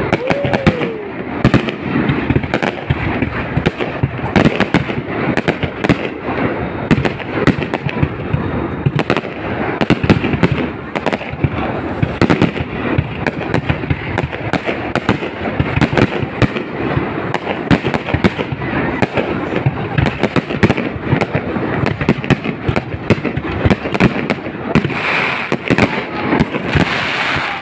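Aerial fireworks display: a continuous barrage of shell bursts, dense bangs and crackles with no pause, the crackling growing thicker near the end.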